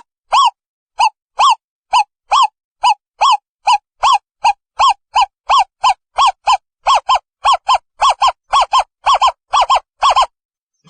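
Owl calling: a long series of short, clipped hoots on one pitch, about two a second at first and quickening to about three a second, then stopping shortly before the end.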